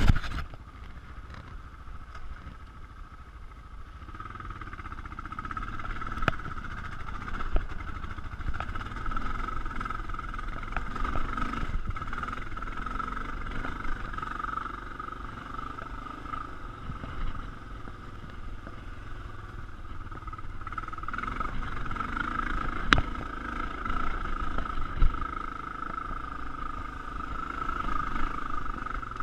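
Honda XR650L dirt bike's air-cooled single-cylinder four-stroke engine running steadily under load while climbing a rocky trail, getting louder about four seconds in. A few sharp knocks come through at intervals.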